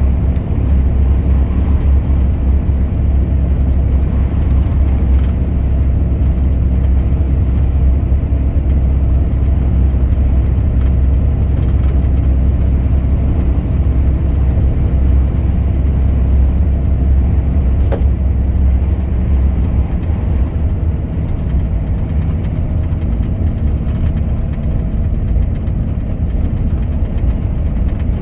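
Truck driving on the road: a steady low engine and road drone that eases slightly about two-thirds of the way through.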